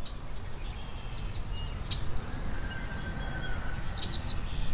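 Wild birds chirping, with a quick run of high chirps about halfway in, over a steady low rumble.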